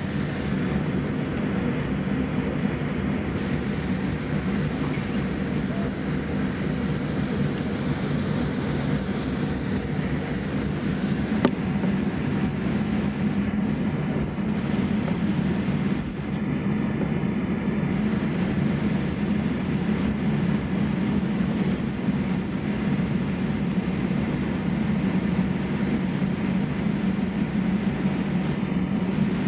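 Steady, unbroken cabin drone inside a Boeing 787-8 airliner, with most of its weight in a low rumble.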